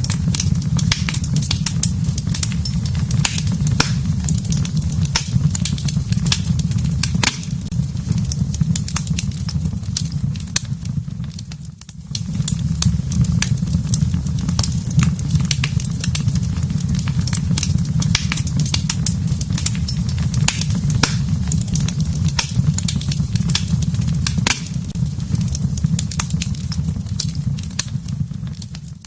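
Wood fire burning in a fireplace: a steady low rumble with frequent sharp crackles and pops. The sound drops away briefly about twelve seconds in.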